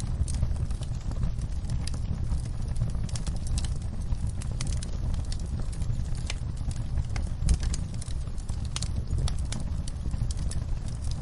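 Wood fire burning in a fireplace: a steady low rumble of flames under irregular crackles and snaps, with one louder pop about two-thirds of the way through.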